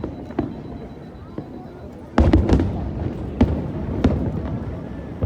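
Aerial fireworks bursting: a few scattered bangs, then a loud volley about two seconds in with a deep rumble under it, followed by more single booms every half second to a second.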